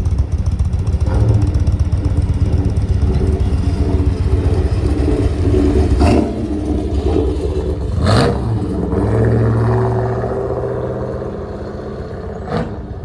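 A vehicle engine running up close, its pitch shifting up and down, with three sharp knocks, about six, eight and twelve and a half seconds in. It tapers off toward the end.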